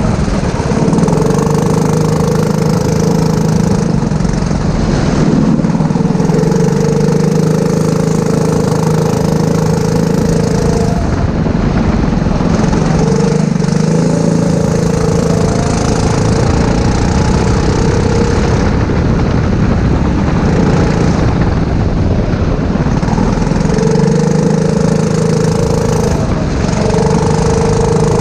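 Four-stroke go-kart engine running hard, its steady note dropping away and coming back several times through the lap.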